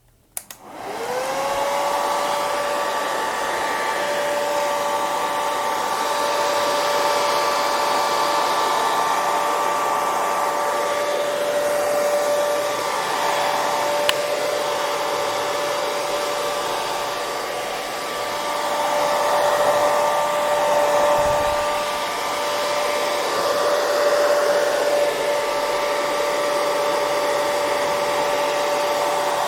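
Hair dryer switched on with a click, its motor whine rising to speed within about a second, then running steadily: a rushing hiss of air under a steady motor whine.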